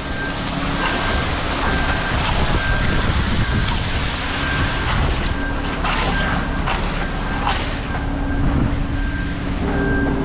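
Concrete mixer truck reversing: its backup alarm sounds evenly spaced high beeps over the steady running of the diesel engine, with a few knocks in the middle.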